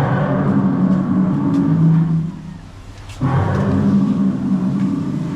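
Two long, low roars of about two seconds each, one at the start and one after a short gap past the middle.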